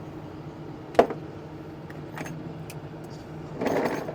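Metal hand tools being handled: a sharp click about a second in and a short rattling clatter near the end, over a steady low hum of an engine running.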